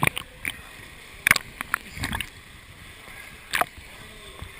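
Water splashing from kayaks and paddles during roll practice: several separate short splashes about a second apart over a low, steady slosh of water.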